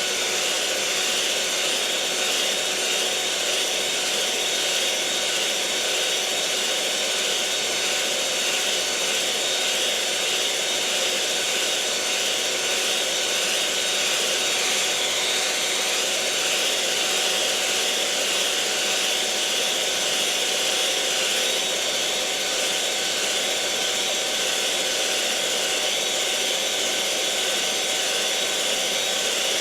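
Electric mixer motor running steadily at one speed: an even whir with a few held tones, unchanging throughout.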